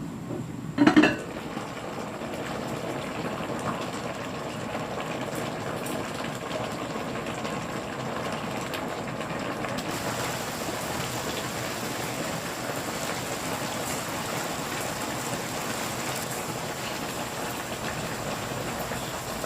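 Soup bubbling steadily in a pot, an even watery bubbling. A short, loud knock about a second in.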